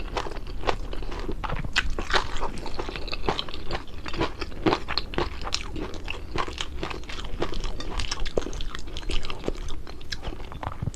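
A person chewing and crunching crispy food close to the microphone: a continuous run of irregular crunches.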